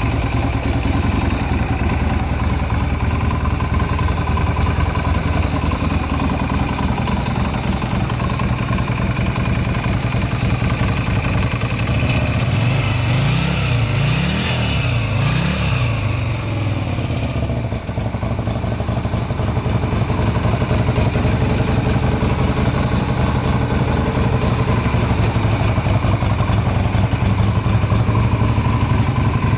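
Yamaha Virago 250's air-cooled V-twin engine idling steadily, blipped up and down three times about halfway through, then settling back to a steady idle.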